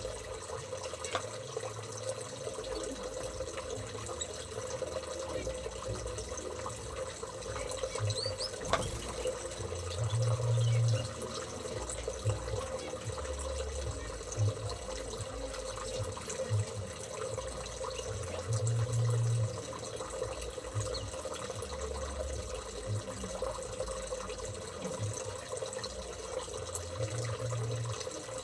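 Steady running water, with a few dull low thuds, the loudest about ten and nineteen seconds in.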